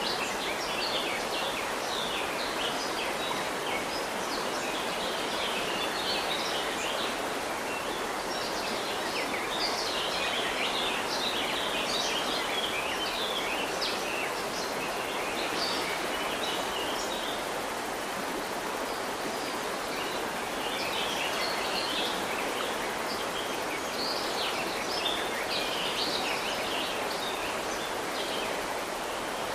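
River water running steadily, with many birds chirping over it in short overlapping calls.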